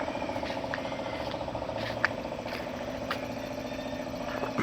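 Engine idling steadily, with a couple of short sharp clicks about two and three seconds in.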